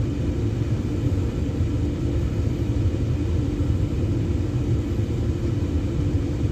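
Carrier gas furnace firing on a call for heat: the draft inducer motor hums and the gas burners, just lit after the gas valve opened, give a steady low rumble.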